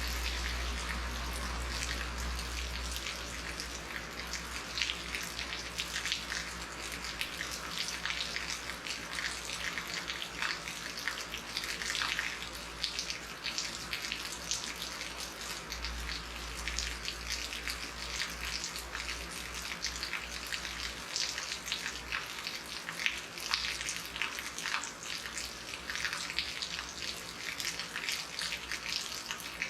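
Heavy rain falling steadily, a dense patter of drop impacts. A low rumble sits underneath at the start and again about halfway through.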